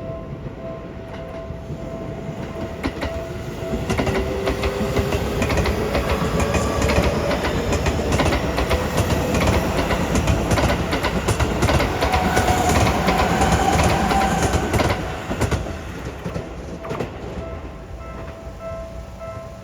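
Seibu Railway electric commuter train passing over a level crossing: wheels clattering over the rail joints and traction motors whining, the whine rising in pitch, loudest from about four to fifteen seconds in. The crossing's electronic warning bell rings its repeated tone underneath, plain again as the train fades.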